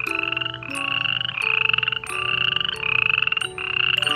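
A rattling, croaking animal call repeated six times in quick succession, each about half a second long and rising slightly in pitch. It plays over a soft chime tune.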